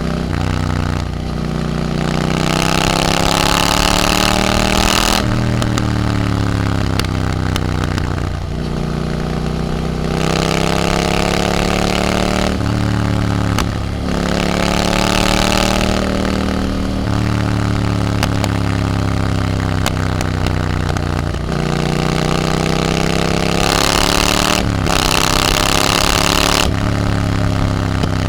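Triumph Scrambler 900's parallel-twin engine through an Arrow exhaust, pulling up through the gears. The pitch climbs steadily, drops sharply at each upshift, and climbs again, several times over. Wind rushes over the microphone during the harder pulls.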